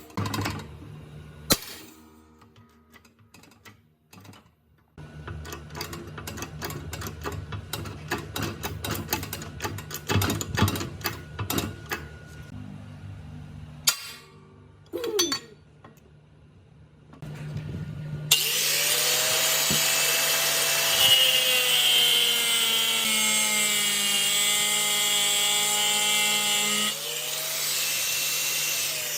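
Hand-tool work with scattered knocks and rapid scraping clicks. About two-thirds of the way through, an electric power tool starts and runs steadily, its pitch slowly sagging as it works under load. It rises again briefly near the end, then begins to wind down.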